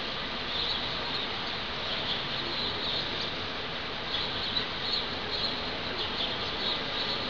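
Steady hiss of rain and wind, with small birds chirping in short repeated calls throughout.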